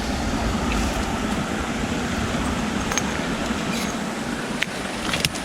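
Steady rush of river water tumbling over rocks, with a few faint clicks in the second half.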